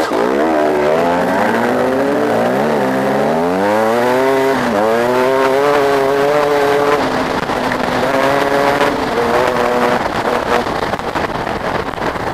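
Motocross dirt bike engine revving hard, its pitch climbing and dropping several times as the rider works the throttle and shifts. It then holds steadier revs and fades near the end.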